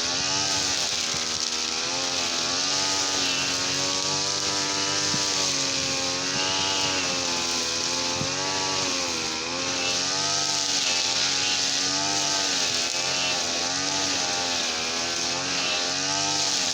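Petrol brush cutter engine running at high speed, its pitch rising and falling every second or two as the throttle and load change.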